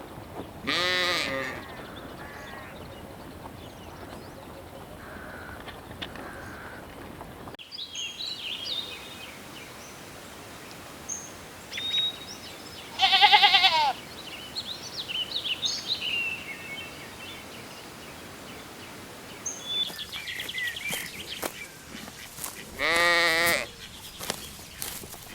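Sheep bleating three times, each a single wavering call of about a second: one near the start, one in the middle and one near the end.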